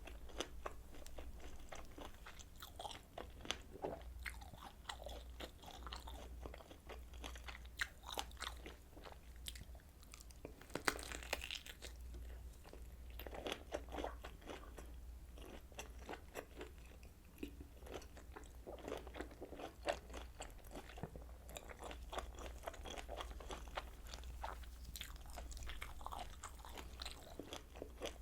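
Close-miked eating of kielbasa sausage: biting and chewing with many quick, sharp clicks and moist smacks, over a steady low hum.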